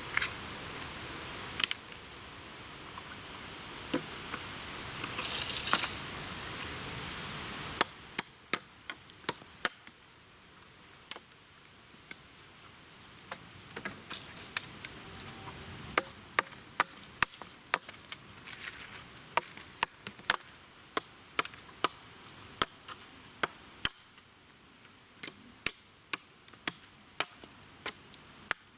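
Rustling for several seconds, then a long series of sharp chopping strokes of a blade into wood, about one or two a second.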